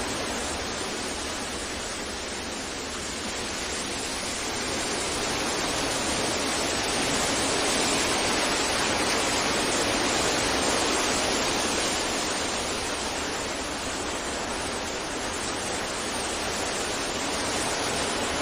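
Continuous rushing wind, an even hiss with no distinct events, slowly swelling and easing in long waves, loudest around the middle.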